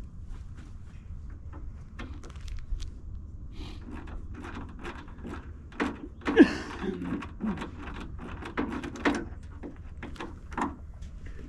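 Irregular metallic clanks, clicks and knocks of hand tools and engine parts being handled, with one louder clunk about six and a half seconds in.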